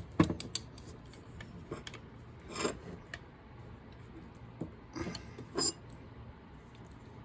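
Metal clicks and clinks of a wrench and spray-gun fittings being handled and tightened, scattered and irregular, with a few louder knocks.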